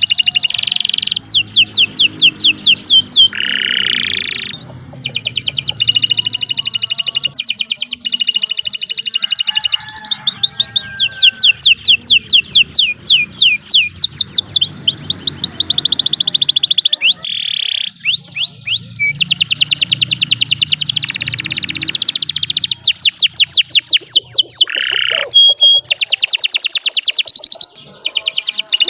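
Domestic canary singing a long, almost unbroken song: fast trills of rapidly repeated chirps that switch to a new note pattern every second or two, with a couple of short buzzy notes.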